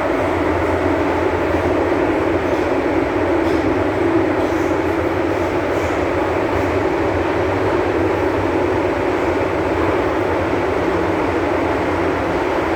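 MTR M-Train electric multiple unit running at steady speed: a continuous, even rumble of wheels on track with a low hum underneath.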